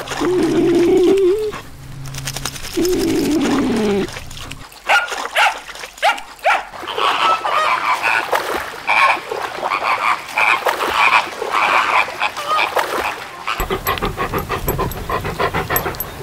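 Dogs vocalising: a long wavering whine, then a call that slides down in pitch, followed by a rapid run of short yelps and barks.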